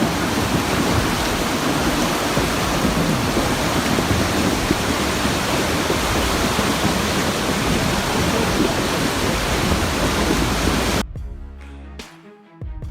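Steady, dense roar of rushing floodwater. About 11 seconds in it cuts off abruptly and music begins.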